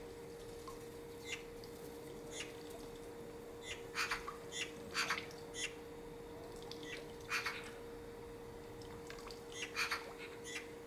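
Short bird calls outdoors, coming at irregular intervals, some in quick runs about four, five, seven and ten seconds in, over a faint steady hum.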